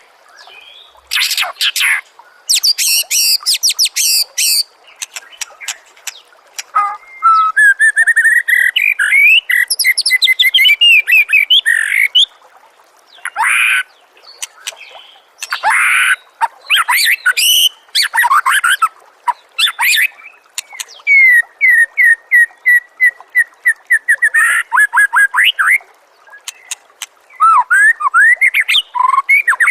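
Songbird song from a masteran (training recording for contest songbirds): loud, varied phrases of whistles, fast trills and rapid repeated chattering notes, separated by short pauses.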